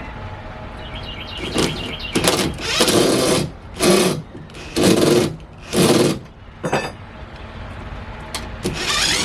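Cordless drill-driver running in short bursts, about six in a row, then one more near the end, backing screws out of a scrap-wood build.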